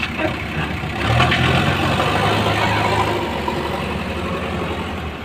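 Heavy diesel engine of road-work machinery running steadily, its low hum strengthening about a second in.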